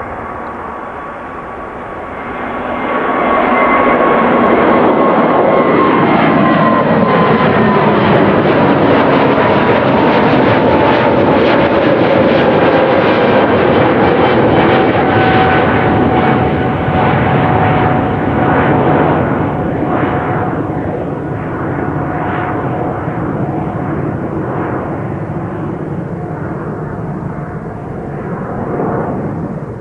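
Airbus A320neo-family airliner with Pratt & Whitney PW1100G geared turbofan engines passing nearly overhead on takeoff with a booming engine sound. The noise swells about three seconds in, stays loud, then slowly fades, and a whining tone slides gradually lower in pitch as the aircraft moves away.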